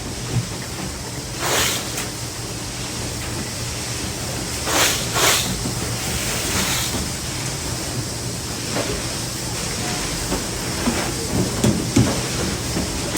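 Workshop machinery running with a steady hum. Short hissing bursts come about a second and a half in and again around five seconds, and a few low knocks follow near the end.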